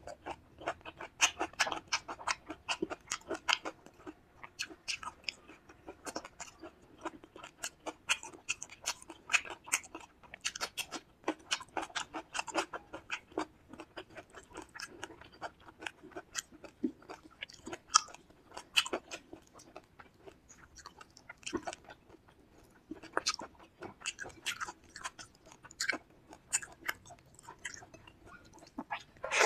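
Close-miked chewing and wet mouth sounds of someone eating a meal of fish curry, fried fish, rice and salad: a continuous, irregular run of smacks and clicks.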